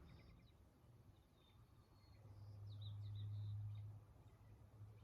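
Near silence with faint, scattered bird chirps and short trills in the background. A low hum swells for about two seconds in the middle, then fades.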